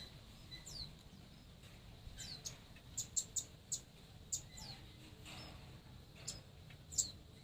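Jongkangan birds in an aviary calling with short, high, quickly falling chirps. The chirps come in a quick run about three seconds in, and the loudest comes near the end.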